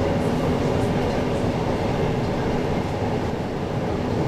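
Steady running noise inside a moving REM automated light-metro car: an even rumble with a faint steady tone through it.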